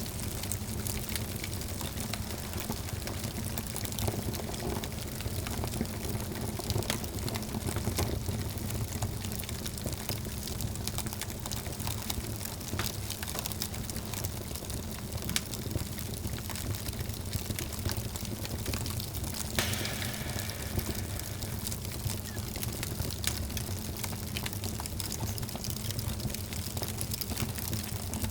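Wood fire burning in a fireplace: a steady low rumble of flames with frequent sharp crackles and small pops, one louder pop about twenty seconds in.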